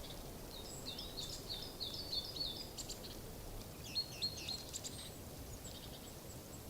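Small songbird singing: a quick run of short, high chirping notes for a couple of seconds, then a second shorter phrase about four seconds in.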